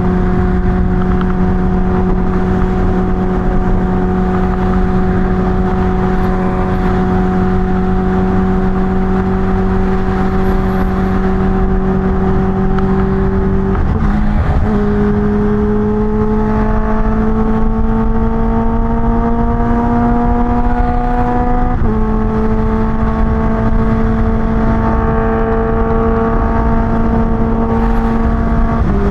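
Kawasaki Ninja H2's supercharged inline-four running at a steady cruise, its note creeping up slowly, stepping higher about halfway through and easing back slightly a few seconds later, over a low wind rumble.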